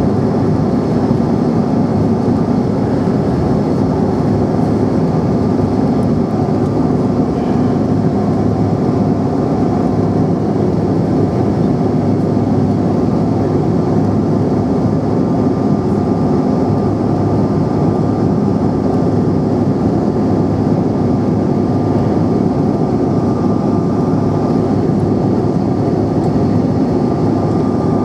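Steady engine and airflow noise of a Bombardier CRJ700 regional jet heard inside the passenger cabin, with a faint high steady whine over a deep even rumble.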